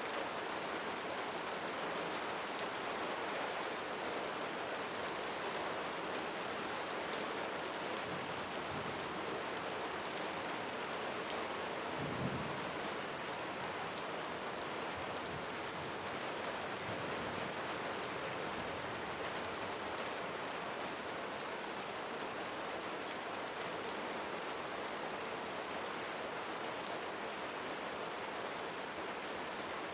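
Steady rain falling, an even hiss of drops with no pauses. There is a brief low thump about twelve seconds in.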